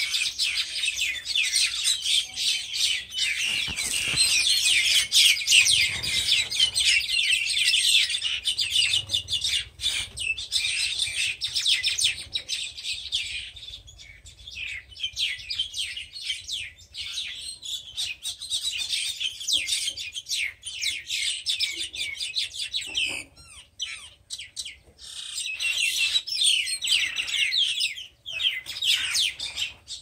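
Small birds chirping, many quick high chirps overlapping in a dense chatter. It thins out for a couple of seconds about halfway through and again around three-quarters of the way, then picks back up.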